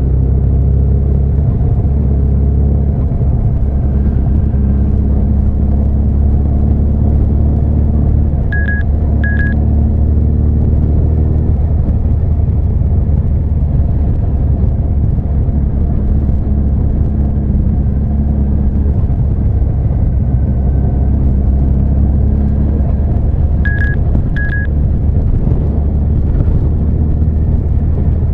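Honda CB1300 Super Bol d'Or's inline-four engine running on the move under a heavy, steady low rumble, the engine note changing about eleven seconds in. Two short high beeps sound twice, about fifteen seconds apart.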